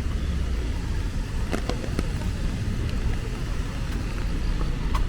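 Rainy city street ambience: a steady low rumble of road traffic under an even wash of rain, with a few short sharp ticks.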